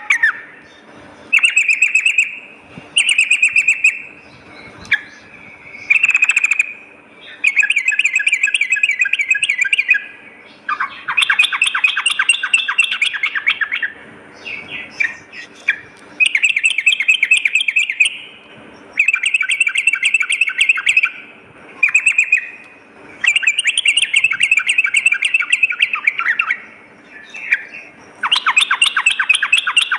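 Yellow-vented bulbul (trucukan) calling in repeated bouts of rapid chattering notes, each bout one to three seconds long with short pauses between.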